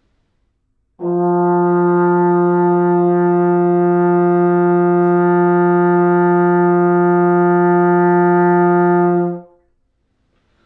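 Trombone playing one long, steady note on middle F (F3, fourth line of the bass clef staff) for about eight seconds, starting about a second in and stopping cleanly near the end.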